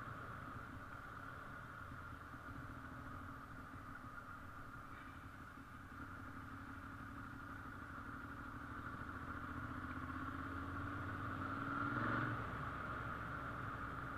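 A motorcycle engine approaches, its note slowly rising and growing louder. It passes loudest about twelve seconds in, and its pitch drops as it goes by.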